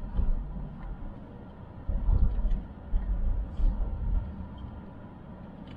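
Low rumble of a 2009 Toyota Corolla with an aftermarket Borla exhaust, heard from inside the cabin as it drives off. The rumble swells louder a few times.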